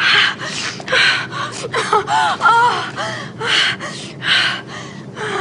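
A woman gasping and moaning in a run of loud breathy bursts, with a few short rising-and-falling whimpering cries in the middle, as part of a sneezing fit.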